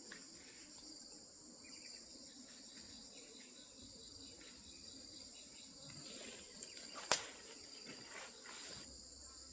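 Steady, high-pitched insect chorus with faint scattered knocks, and one sharp knock about seven seconds in, the loudest sound.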